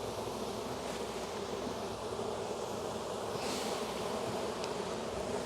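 Dense, steady buzzing of a very large honey bee colony in an opened hive. A short soft rustle or scrape comes about three and a half seconds in.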